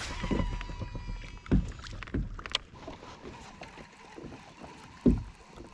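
Low knocks and bumps against a plastic fishing kayak's hull, the loudest about five seconds in, with a faint steady whine in the background.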